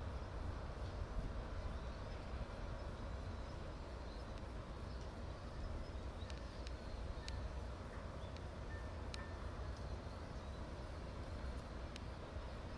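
Steady low outdoor rumble of harbour ambience, with a few faint, sharp, distant clicks or knocks in the second half.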